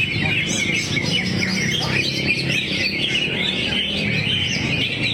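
Greater green leafbird (cucak hijau) singing a fast, unbroken stream of chirps and twittering phrases, pouring out its varied song repertoire, over a low steady background hum.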